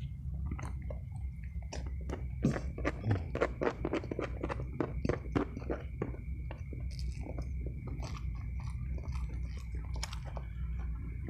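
Close-miked chewing of a handful of rice and fried snakehead fish, with many quick wet clicks and smacks that are densest in the middle few seconds, over a steady low hum.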